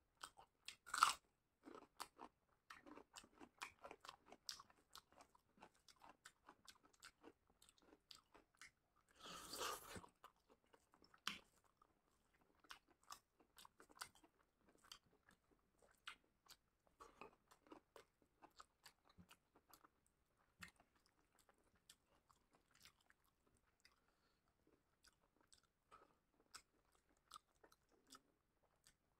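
Close-miked eating: a person chewing and crunching through curry, rice and chicken, with wet mouth clicks and smacks throughout. A loud crunch about a second in comes as a piece of raw onion is bitten, and a brief rushing, noisy sound follows about a third of the way in.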